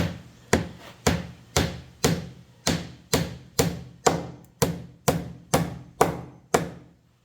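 Hammer driving a nail into wood with steady, evenly spaced blows, about two a second, stopping about six and a half seconds in.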